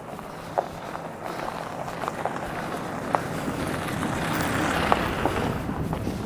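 A vehicle passing by, its noise swelling to a peak about five seconds in and then fading, with a few footsteps along the way.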